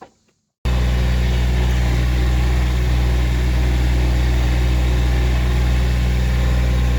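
Massey Ferguson GC1725MB sub-compact tractor's diesel engine running steadily, cutting in abruptly less than a second in.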